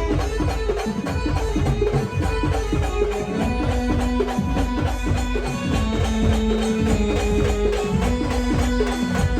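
Maharashtrian brass band playing an instrumental passage: long held melody notes over fast, steady drums.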